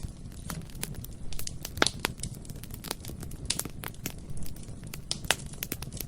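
Bonfire burning: a steady low rumble of flames under irregular crackling and sharp snaps and pops of burning wood, the loudest pops about two seconds in and near the end.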